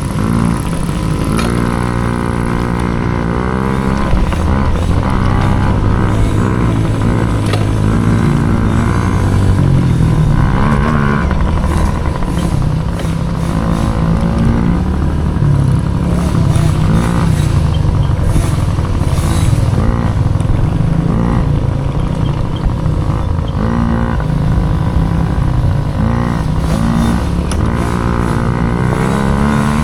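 Mini dirt bike engine running hard, its pitch climbing and then dropping over and over as it revs up through the gears and back off.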